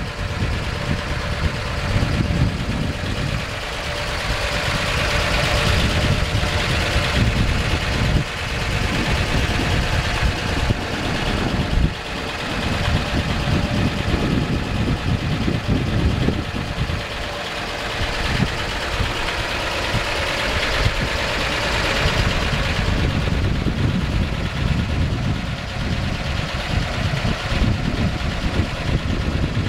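1955 Chevrolet Sedan Delivery's engine idling, a continuous low rumble.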